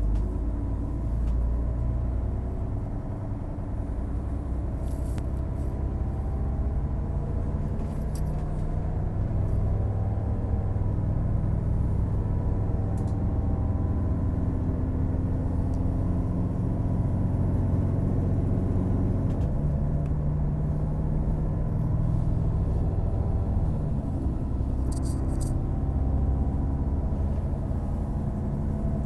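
DB class 642 (Siemens Desiro) diesel multiple unit under way: a steady engine drone with running noise, the engine note shifting a couple of times in the second half, with a few short high clicks.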